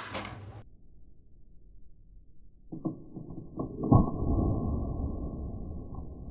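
A few sharp clicks at the start, then after a quieter gap several muffled low thuds, the loudest about four seconds in, trailing off into a low rumble.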